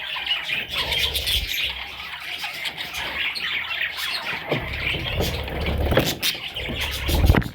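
Budgerigars chirping and chattering continuously in a busy, high-pitched warble. A low rumble joins in during the second half, and a brief thump comes just before the end.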